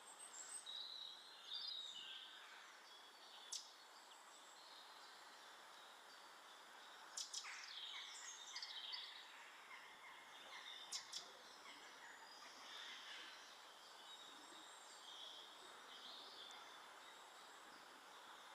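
Faint garden birds chirping and calling in short, scattered notes over a steady background hiss, with a few sharp clicks.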